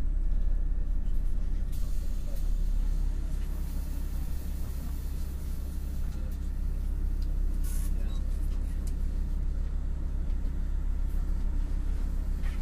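MAN NL253 Hybrid city bus heard aboard during a ride: its drivetrain gives a steady low rumble. A hiss comes in about two seconds in and fades out around six seconds, and a short sharp hiss comes near eight seconds.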